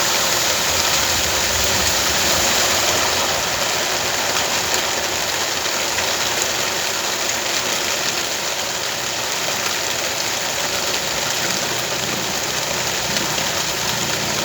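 Steady hiss of rain falling, with a low engine running underneath.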